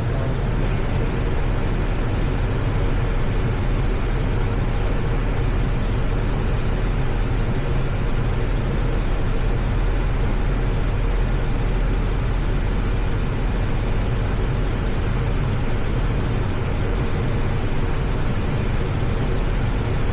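Steady flight-deck noise of an Airbus A320 on short final: airflow and engines at approach power. A faint high whine joins about halfway through.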